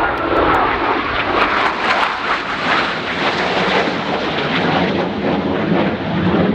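Jet aircraft flying past, a loud roar that swells toward the middle and then eases.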